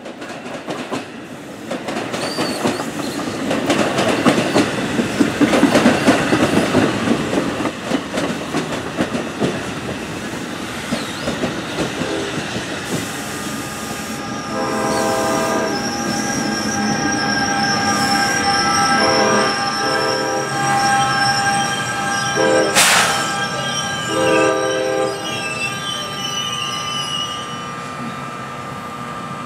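NJ Transit Multilevel coaches rumbling and clattering past on the rails, loudest in the first several seconds. From about halfway on a train horn sounds a series of long and short blasts, over steady high tones from the ALP-46A electric locomotive pushing at the rear. A sharp clank and some wheel squeal follow near the end.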